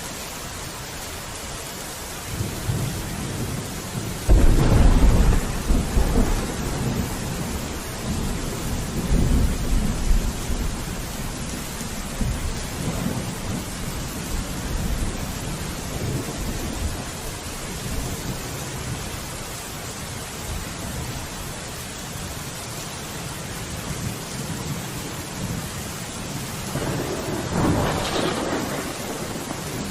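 Steady rain with rolling thunder. A rumble builds about two seconds in, peaks sharply around four seconds and rolls on for several seconds. A second roll of thunder comes near the end.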